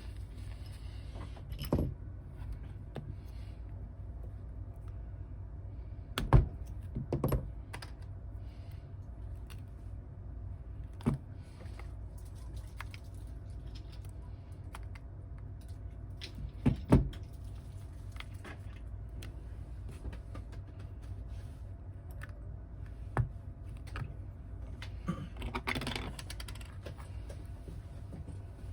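Scattered clicks and knocks of small tools and phone parts being handled on a workbench during a smartphone repair, over a steady low hum. The loudest knocks come about six seconds in and again about seventeen seconds in.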